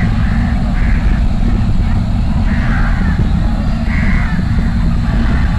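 Short bird calls repeating roughly once a second over a steady low rumble.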